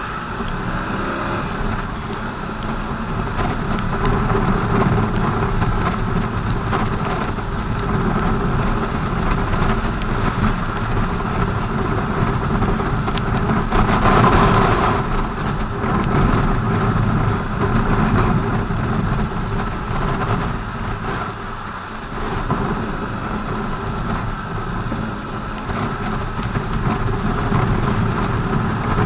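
Onboard sound of a BMW R 1200 GS boxer-twin motorcycle riding in traffic: a steady mix of engine and road noise, which swells louder for a moment about halfway through.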